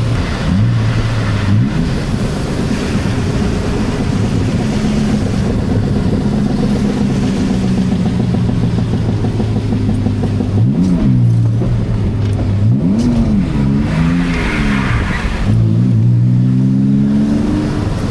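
BMW 328Ci's straight-six engine running, heard from inside the car: its note holds steady for most of the time, then the revs rise and fall several times near the end. A steady hiss of tyres on a wet road runs underneath.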